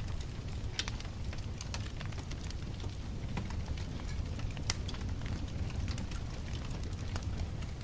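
Wood campfire burning, crackling and popping irregularly over a steady low rumble of the flames, with one sharper crack a little past the middle.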